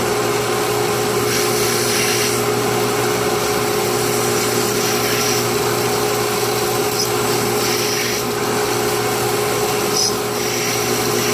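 An electric drill mounted in a DrillNado jig runs steadily as its bit bores a pen blank. The cutting sound grows harsher in several separate strokes, since the bit is withdrawn repeatedly so the heat doesn't push it off course.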